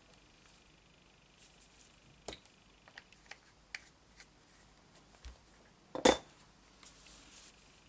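Craft tools and supplies handled on a desk: scattered light clicks and taps, with one sharp knock about six seconds in, as of something hard set down, and a faint rustle of paper near the end.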